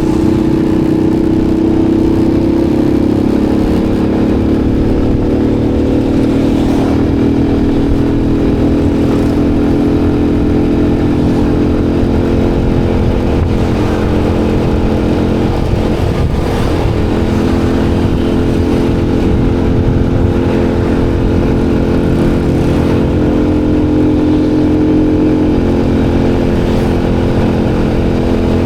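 Motorcycle engine running steadily while riding, with a steady low rumble beneath it; the engine note shifts in pitch a few times as the speed changes.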